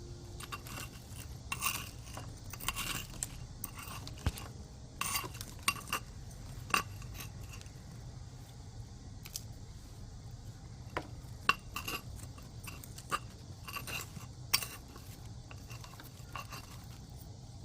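Hand pruning shears snipping plant stems: sharp, irregular metallic clicks and crunchy snaps, a dozen or so at uneven intervals, over a low background hum.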